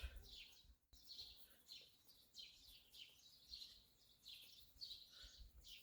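Faint birdsong: a small bird repeating short, falling chirps, about one to two a second.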